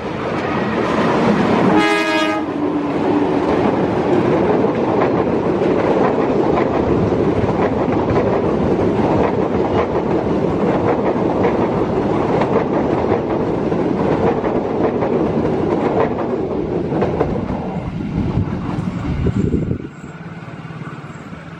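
Commuter train passing close by: a short horn blast about two seconds in, then a long, loud rumble of wheels clattering over the rail joints, which drops away suddenly near the end.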